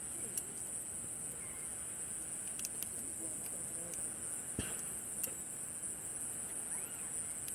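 Steady high-pitched chorus of night insects, with a few sharp pops from a crackling campfire, the loudest about halfway through.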